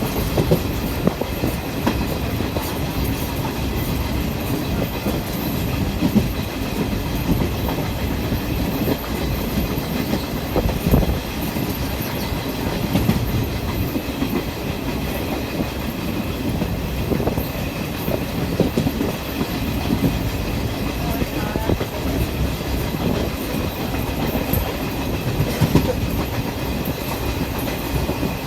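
A moving train: a steady rumble with irregular clatter of wheels on the rails.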